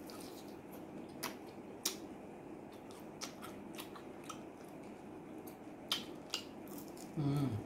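Close-miked chewing of fried chicken, with sharp wet mouth clicks and smacks scattered throughout. Near the end comes a brief hummed "mm" from the eater, the loudest sound.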